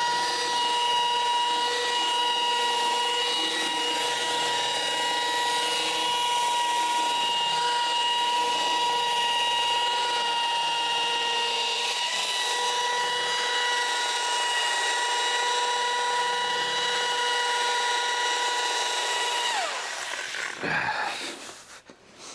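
Electric machine polisher compounding car paint, its motor running with a steady whine, then switched off near the end and whining down in pitch as it spins to a stop.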